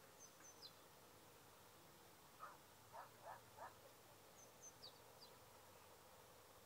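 Near silence with faint, distant bird calls: a short high chirp falling in pitch near the start and a few more about four and a half to five seconds in, and four short lower calls between about two and a half and three and a half seconds in.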